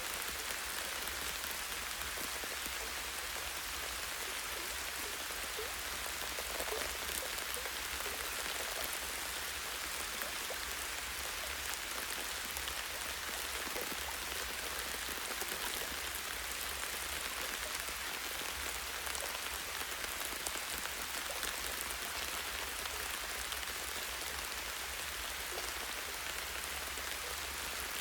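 Light rain falling steadily, drops striking tree branches and leaves: an even hiss dotted with many small ticks.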